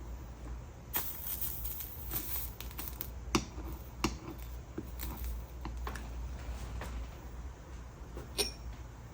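Scattered light clicks and taps of tools and foiled glass pieces being handled during stained-glass soldering, over a steady low hum. A few sharper taps come near the middle, and one near the end has a brief glassy ring.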